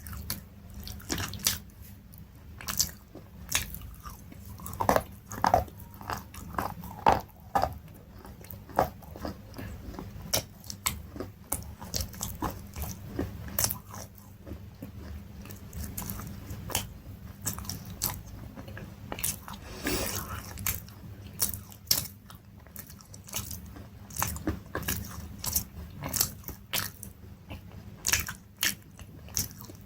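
Crunchy food being bitten and chewed, a dense irregular run of sharp crunches.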